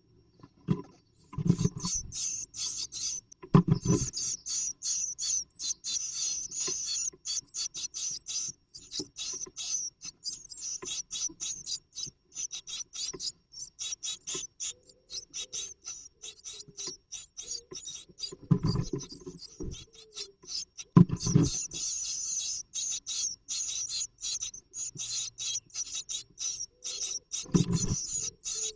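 Rapid, dense scratching and rustling of nest material inside a great tit nest box as the bird moves and works in the nest, broken by a few louder thumps.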